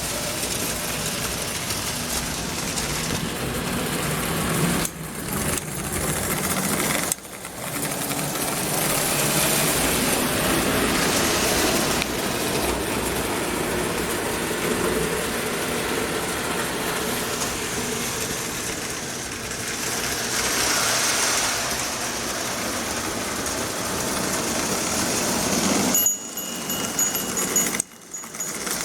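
Marx 1666 toy train locomotive running on its track: a steady electric-motor whir and wheel clatter. The sound dips briefly a few times, about five and seven seconds in and again near the end.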